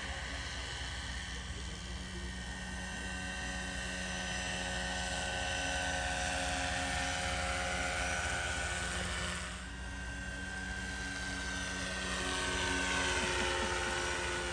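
Radio-controlled scale Bell 412 helicopter running, a steady whine of several tones over the rotor's hum. It swells in loudness, dips briefly about two-thirds of the way through, and its whine drops in pitch near the end.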